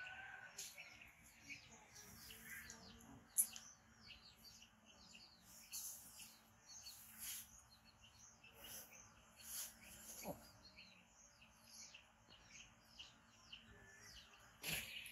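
Faint chirping of small birds, many short calls throughout, with one sharp click about three seconds in.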